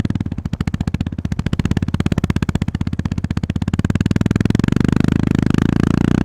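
Honda GB350S single-cylinder engine running under way, a fast even train of exhaust pulses; it opens up and gets louder from about four seconds in as the bike accelerates.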